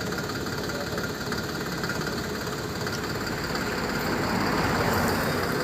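Sanman 6000 tractor's diesel engine running steadily, getting a little louder near the end.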